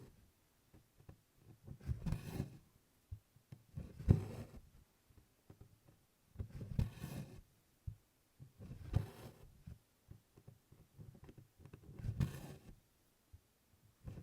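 Embroidery floss being pulled through 24-count Congress cloth canvas in tent stitch: five soft swishes, each about half a second long, coming about every two seconds as each stitch is drawn through.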